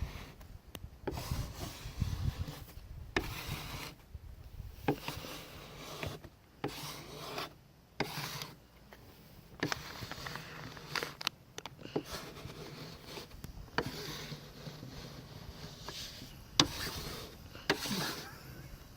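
Repeated rubbing strokes as a vinyl sticker is pressed down onto the car through its transfer tape, with scattered sharp clicks between strokes. Low wind rumble on the microphone in the first couple of seconds.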